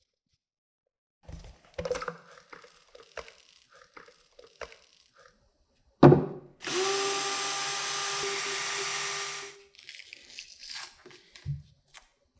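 Clicks and knocks of parts being handled, then a sharp knock about six seconds in. A small power tool then runs at a steady pitch for about three seconds and stops.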